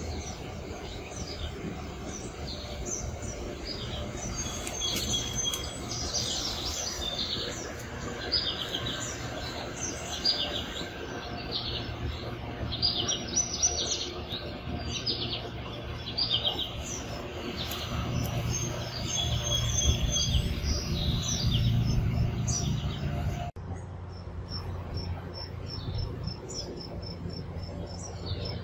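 Songbirds chirping and calling, many short repeated notes, over a steady low hum.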